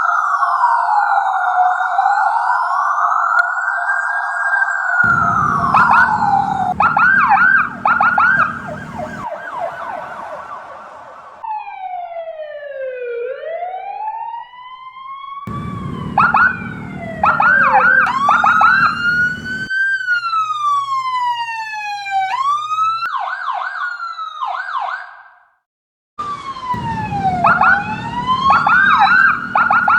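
A run of different police car sirens, cut one after another: slow wails rising and falling, fast yelps, and rapid chirping bursts, some with vehicle rumble underneath. The sound drops out briefly about four seconds before the end.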